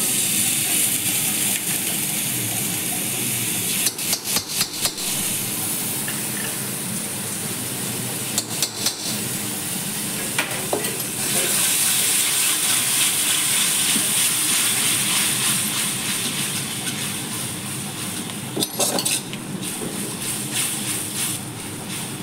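Curd (yogurt) sizzling in hot spiced oil in a kadai as it is stirred in with a metal spatula. A steady frying hiss runs throughout, with short runs of scraping clinks from the spatula against the pan a few times.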